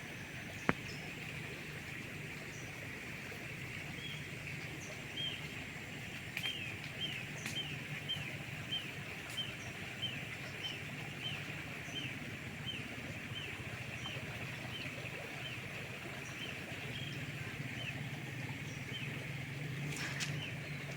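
A bird repeating a short falling call over and over, about three notes every two seconds, starting a few seconds in and stopping near the end. It sits over a steady high drone of rainforest background and a low steady hum, with a single click about a second in.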